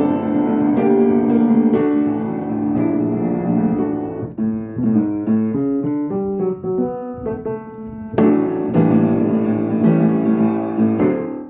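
Solo piano playing: full chords, then about four seconds in a run of quick single notes, broken by a loud chord about eight seconds in and further chords.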